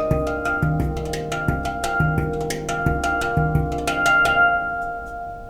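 Handpan played in a quick rhythm of struck, ringing steel notes over a low centre note hit about twice a second. Near the end the strikes stop and the last notes ring on and fade.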